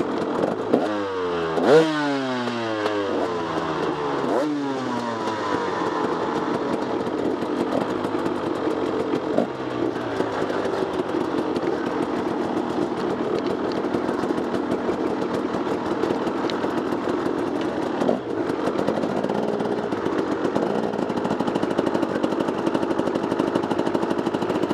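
Off-road motorcycle engines: in the first five seconds two engine notes drop sharply in pitch, then an engine runs steadily at speed with some clatter and a couple of short knocks.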